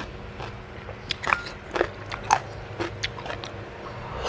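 Close-up chewing and wet lip-smacking of a mouthful of soft, fatty catfish, with short sharp mouth clicks every half second or so.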